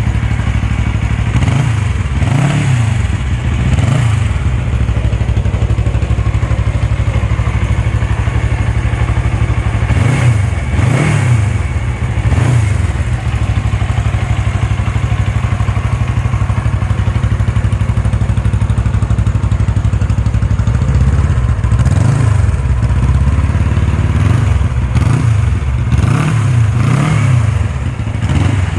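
Suzuki GS 400E twin-cylinder motorcycle engine running, a steady idle broken by quick throttle blips that rise and fall in pitch: a few about two seconds in, three more around ten to twelve seconds in, and a longer run of them in the last third.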